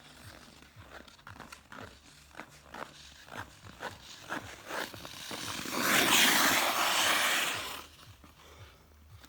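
Ice skate blades on pond ice: a run of short scraping clicks, two or three a second, then a loud scrape lasting about two seconds a little past the middle.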